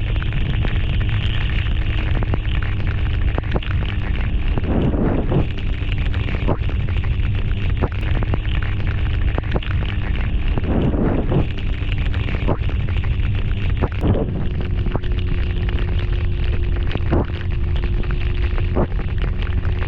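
Riding sound of a BMW S1000RR sport bike: heavy wind buffeting on the camera microphone over the steady note of its inline-four engine. The engine note steps up in pitch about two-thirds of the way through, with brief swells of wind a quarter and halfway in.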